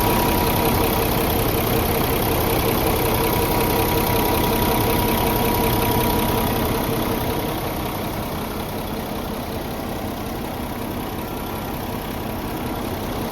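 Kenworth T800 semi-tractor's diesel engine idling steadily, turning a little quieter about seven seconds in.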